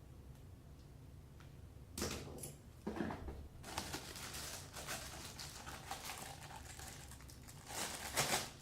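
Packaging being handled while faucet parts are unpacked: irregular rustling and crinkling with small clicks, starting about two seconds in and loudest near the end.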